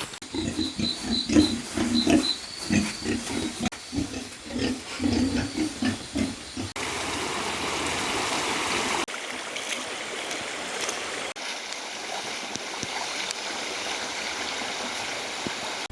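An animal grunting over and over in short pitched calls for the first several seconds, then, after a cut, a steady rushing noise with no pitch.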